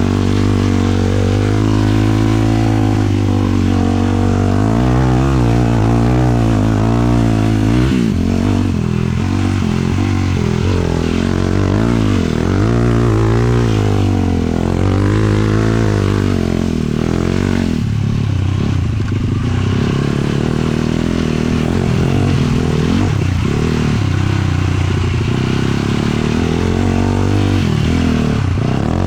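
Sport quad's 450cc single-cylinder four-stroke engine running under way, its revs rising and falling again and again as the throttle is worked.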